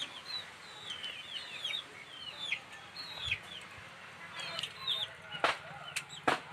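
Birds chirping: a run of short, high chirps that slide downward, coming in quick succession, with a few sharp clicks or knocks near the end.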